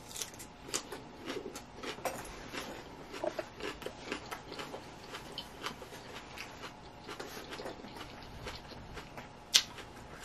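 A person chewing a mouthful of leafy salad: a run of small crunching and wet mouth clicks, with one sharper click near the end.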